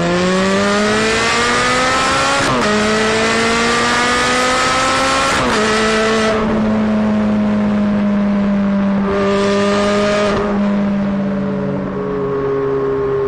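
Straight-piped Ferrari engine accelerating hard, its pitch climbing and dropping sharply at two upshifts, about two and a half and five and a half seconds in. It then settles into a steady, slowly falling drone, with a brief burst of throttle around ten seconds.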